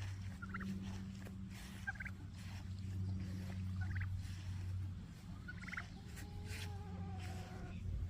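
Turkey poults peeping: short high chirps in little clusters about every two seconds, with a longer, lower call near the end, over a steady low hum.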